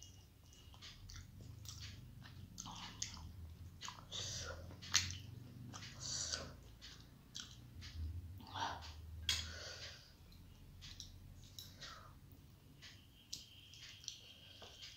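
Close-miked chewing of rice and mustard fish curry eaten by hand, with irregular wet smacks and mouth clicks that are busiest in the middle and thin out near the end.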